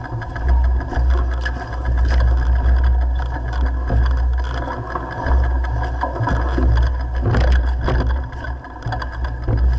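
Mountain bike running over a rough dirt downhill trail at speed: tyres rolling and the bike rattling, with a few sharp knocks from bumps, under a heavy wind rumble on the microphone.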